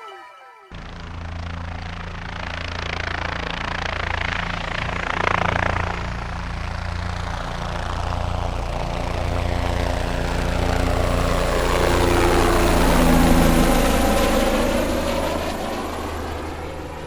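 Helicopter rotor and engine running steadily, a loud low drone with a noisy wash over it and slow rising and falling sweeps in pitch. It starts about a second in and cuts off suddenly near the end.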